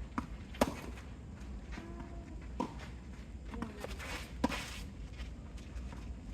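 Players' footsteps on a court with three sharp knocks about two seconds apart during a game; the loudest knock comes about half a second in.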